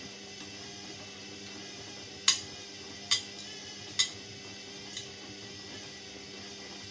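Indesit 71252 washing machine running mid-cycle with a steady hum, broken by four sharp metallic clinks a little under a second apart, the last one fainter.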